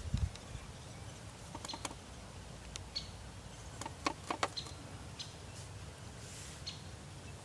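Faint outdoor ambience: a steady low rumble with a few short, high bird chirps and scattered light clicks and taps, a cluster of them about four seconds in.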